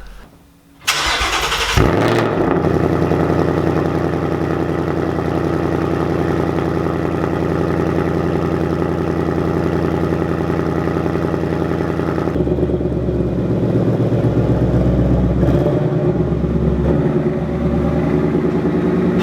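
A 2019 Mustang GT's 5.0-litre V8 cold-starting through its active exhaust with resonator delete and H-pipe. The starter cranks about a second in and the engine catches with a short rev flare. It then settles into a steady, loud cold idle, whose note drops deeper about twelve seconds in.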